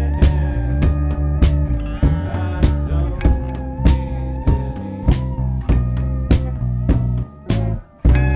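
A band jamming in a psychedelic rock style: regular drum hits and a bass line under a guitar playing long, wavering notes. About seven seconds in the band drops out briefly, then comes back in together.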